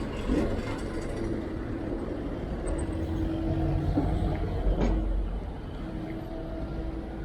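City road traffic: motor vehicles running and passing, a steady low rumble with an engine hum that holds one pitch. A short knock comes about five seconds in.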